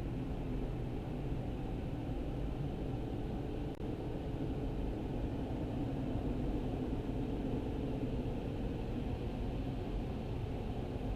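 YASUI Miracon Rush gantry car wash machine running through its cycle: a steady noise with a faint steady hum through most of it.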